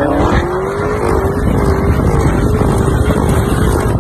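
Car engine revving hard: its pitch climbs over the first second, then holds high and wavers as the throttle is worked. A heavy rushing noise runs underneath.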